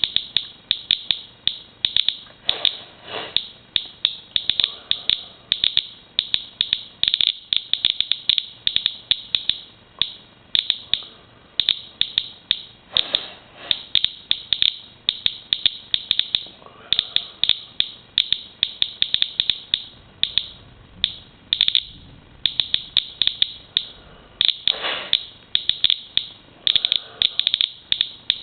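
Inspector handheld Geiger counter clicking at irregular intervals, about five counts a second, as it measures a rainwater sample, with the total running near 330 counts per minute.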